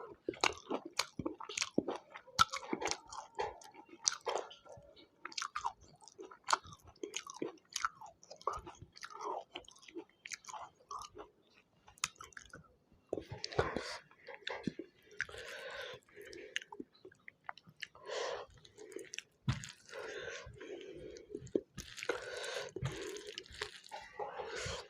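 A person chewing food close to the microphone: a quick run of wet clicks and smacks, turning into longer, denser chewing sounds about halfway through.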